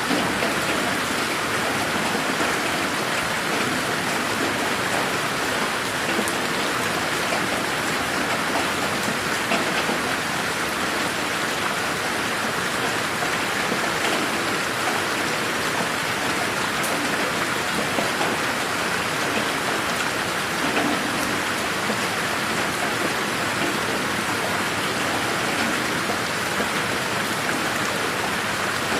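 Steady rain falling on a garden, an even hiss of rainfall with scattered drops ticking.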